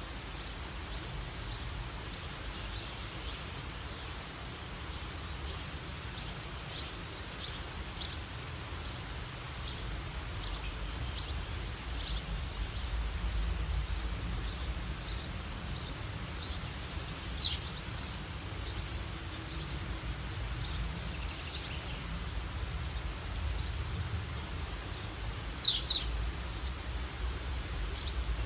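Outdoor nature ambience: a steady low rumble of wind with scattered faint bird chirps and a very high insect trill that comes and goes. A sharp, loud downward bird chirp stands out a little past the middle, and a quick double chirp comes near the end.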